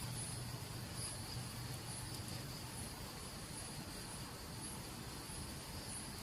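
Forest insects trilling: a steady high-pitched drone with a higher chirp pulsing about once a second, over a low steady rumble.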